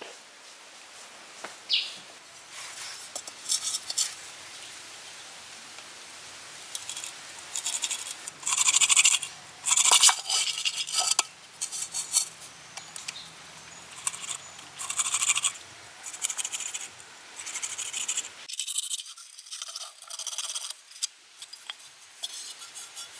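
Scraping sounds in short, irregular bursts, some of them loud, with a few sharp clicks in between.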